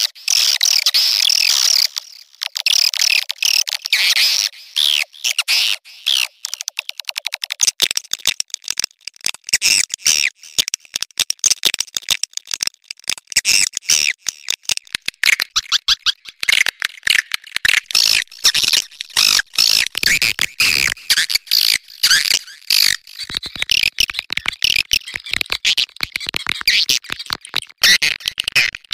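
Swiftlet mating calls: dense, rapid, high twittering chirps and clicks with only brief gaps. This is the kind of recording played to lure swiftlets into a nesting house.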